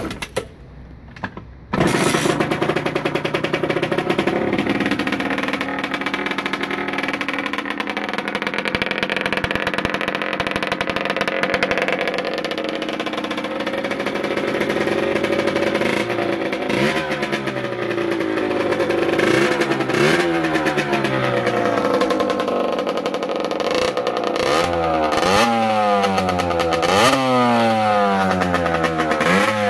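2005 Rieju RR 50cc two-stroke with a Technigas Enox exhaust, starting about two seconds in and settling into a steady idle. From about halfway it is revved again and again in short rising-and-falling blips, which come more quickly near the end.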